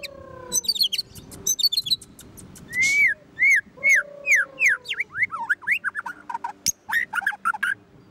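White-rumped shama (murai batu) singing a varied song: long falling whistles at the start, then a run of loud arched whistled notes and a quick series of short high notes near the end.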